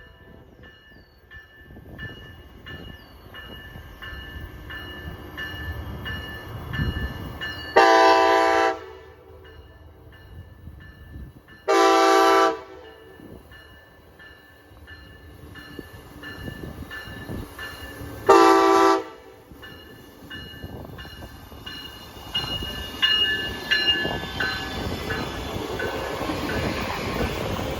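Amtrak passenger locomotive's horn sounding three blasts, a long, a short and a long, each a multi-note chord. Between them the rumble of the approaching train grows louder, and the wheels and engine noise swell near the end.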